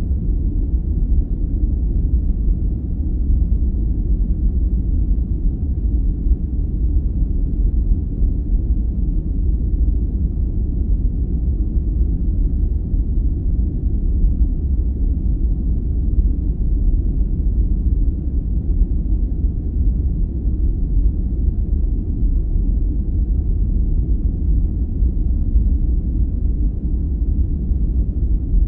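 Steady, deep rumbling noise played as a sleep aid, like brown noise rather than hissy white noise. It is loud and even, with no change, pulses or events.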